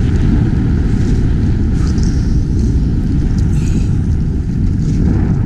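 Loud, steady wind rumble on the microphone, from the rider's speed on a snowboard descending through powder.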